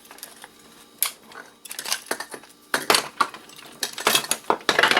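Small metal scrap parts from a torn-down heat gun clinking and rattling as they are handled and dropped, in several bursts of sharp clicks, the busiest near the end.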